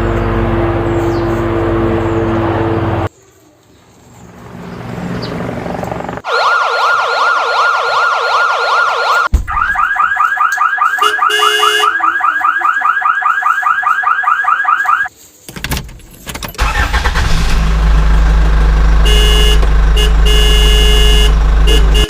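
A run of electronic vehicle sounds: a steady engine-like hum with tones, then a siren that sweeps quickly up and down, switching about nine seconds in to a faster warbling siren, then after a short break a low steady engine rumble with horn-like tones.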